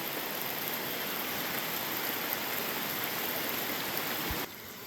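Steady rain falling, an even hiss that drops away abruptly near the end.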